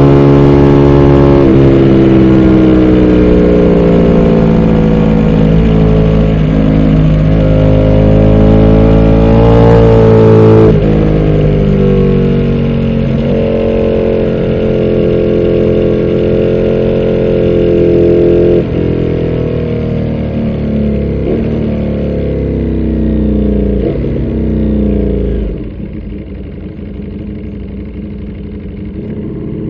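Ducati Panigale V4 R's V4 engine heard from on board, running at part throttle with a few gear changes as the bike slows. Each change drops the engine note lower and quieter, and near the end it settles to a low, slow running close to idle.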